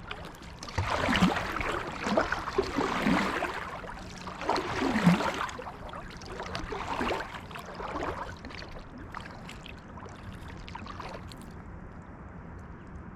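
Kayak paddle strokes in the water: the blade splashing and swishing through the creek every second or two, with dripping between strokes. The strokes get weaker near the end.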